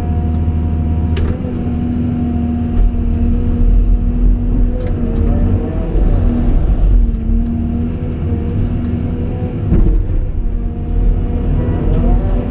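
Caterpillar 349E excavator's diesel engine running steadily, with a whine from the hydraulics that bends in pitch as the hydraulics are worked, about halfway through and again near the end.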